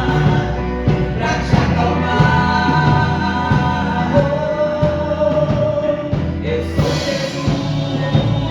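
Gospel song sung live over a band with drums, with one sung note held for about two seconds in the middle.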